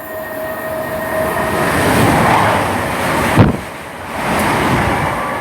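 Chiltern Railways Class 168 diesel multiple units passing through a station at speed: a rush of wheel and engine noise that builds over about two seconds. About three and a half seconds in there is a sudden loud thump and a brief drop, then the noise swells again as the second train passes.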